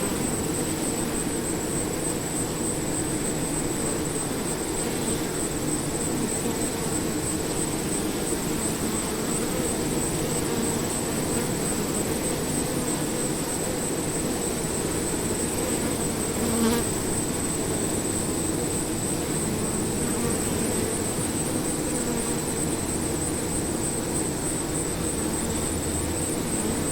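A swarm of bees buzzing in a dense, steady drone. A thin, steady high tone runs alongside it.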